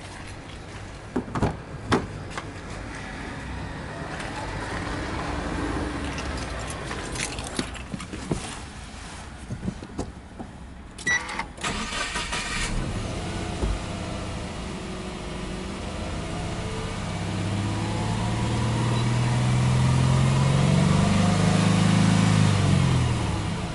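Subaru Impreza 1.5 i-L's 1.5-litre flat-four boxer engine: after a few clicks and knocks, the starter cranks and the engine catches about halfway through, then idles and is revved several times in rises and falls near the end.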